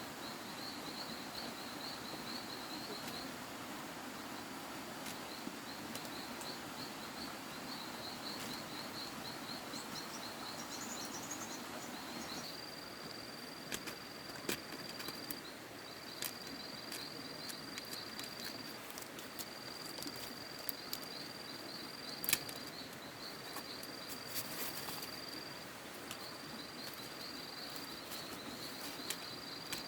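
Insects singing at a high pitch, first a rapid pulsing trill, then from about halfway a continuous high buzz in stretches of a few seconds each. Behind it is a steady outdoor hiss, with a few sharp clicks or knocks.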